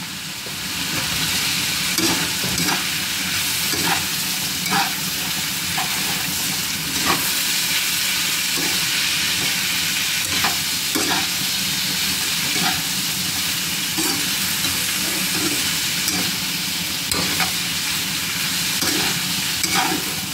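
Sliced zucchini sizzling steadily in a frying pan while a spatula stirs it, with short scrapes and taps against the pan every second or so.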